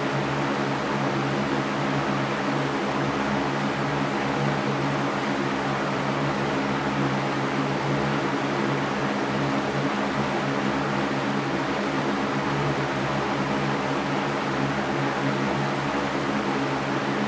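Electric fan running steadily, a constant airy whoosh over a low motor hum.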